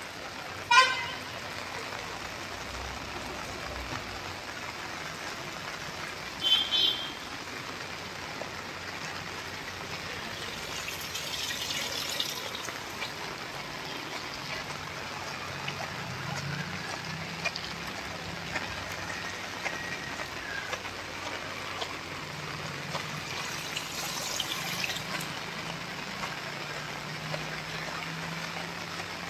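Steady rain falling, with a short loud horn toot about a second in and a second, briefer double toot around six seconds in.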